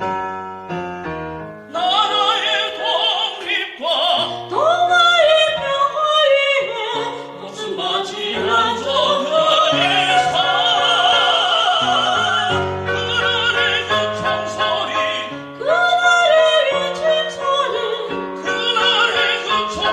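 A song sung with strong vibrato over instrumental backing with held bass notes. A short instrumental passage opens, and the voice comes in about two seconds in.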